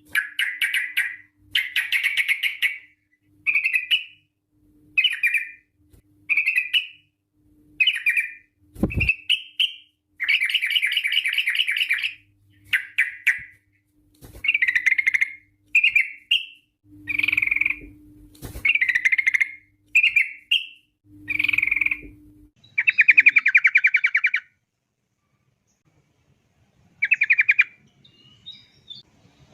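Yellow-vented bulbul (trucuk) singing a string of short bubbling, chattering phrases. Long fast rolling trills come about ten seconds in and again around twenty-three seconds, before a short pause. Two dull knocks come around nine and eighteen seconds.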